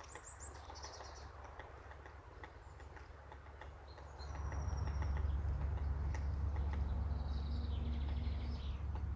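Birds calling: a quick descending run of high chirps at the start, a single thin whistle near the middle, and a short trilled phrase near the end. Under the calls is a low rumble that grows clearly louder about four seconds in.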